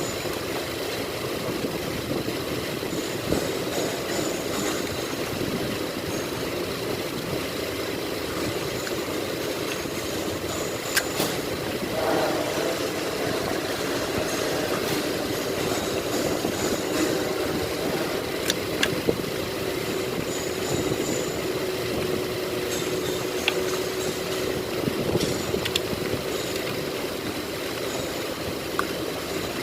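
Steady mechanical rumble, like a running engine, with a few short sharp metallic clicks of hand tools scattered through it while spark plugs and ignition coils are refitted.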